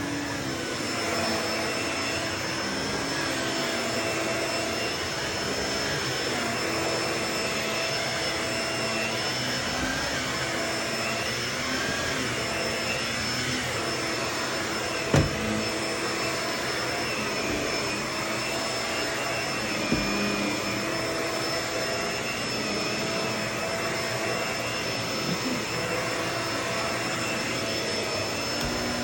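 Vacuum cleaner running continuously with a steady high whine, its motor pitch wavering slightly as it works. Two sharp knocks stand out, about 15 and 20 seconds in.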